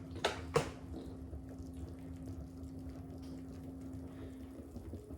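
LG WM6700HBA front-load washing machine running: a steady low hum that fades out shortly before the end, over a low rumble. Two sharp knocks in the first second.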